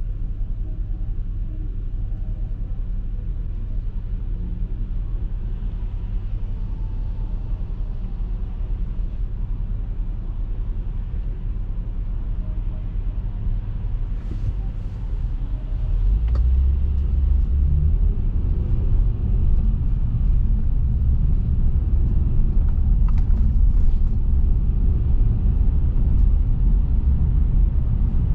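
Car driving, with a steady low rumble of road and engine noise that steps up and grows louder about halfway through, as if picking up speed.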